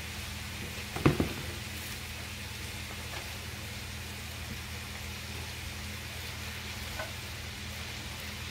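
Onion and bell peppers sizzling steadily in oil in a pot as shredded collard greens cook down, over a steady low hum. A single knock sounds about a second in.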